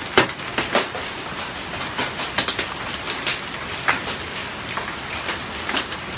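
Hail storm: a steady hiss of hail and rain coming down, with irregular sharp clacks of individual hailstones striking hard surfaces.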